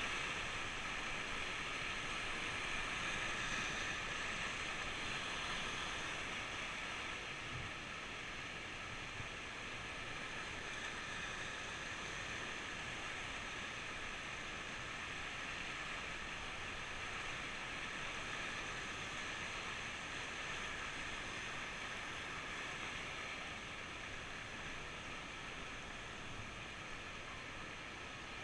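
Rushing whitewater of a river rapid, a steady even hiss that eases a little after about seven seconds.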